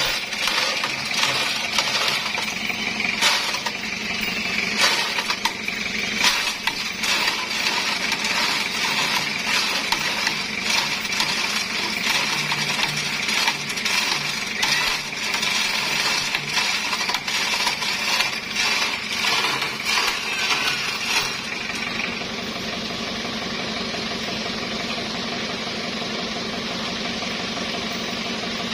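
Rapid metallic clinking and clicking of a chain, typical of a hand-operated chain hoist lifting a heavy log, over a steady running engine. About 21 seconds in the clinking stops and only the engine continues.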